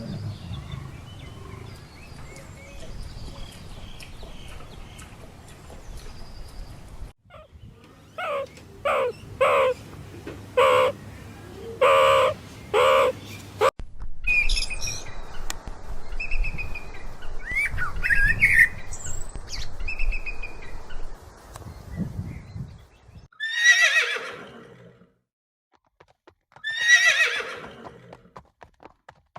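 A run of mixed animal calls: six short calls in quick succession, then bird chirps and trills, then two horse whinnies near the end, each a falling call about a second and a half long.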